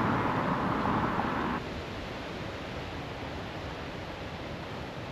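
Outdoor road traffic noise for about the first second and a half, cut off abruptly, then a steady, quieter outdoor hiss.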